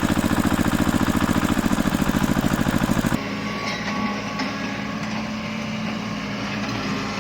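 Vehicle engine sound effects: an engine running with a fast, even chugging pulse that cuts off abruptly about three seconds in, followed by a quieter, steadier engine running.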